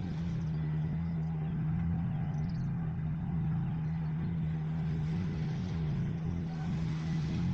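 Steady, even engine or motor hum with a low drone.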